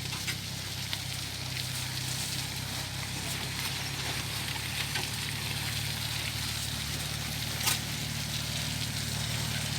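Vehicle engine running steadily with a low hum while driving on a muddy road, with wet sloshing and a sharp click about three-quarters of the way through.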